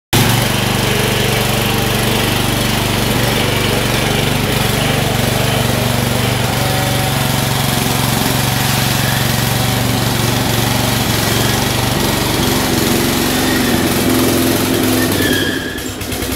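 Lawn mower engine running steadily while it tows a car that is not running. The engine note eases off and gets quieter about a second before the end.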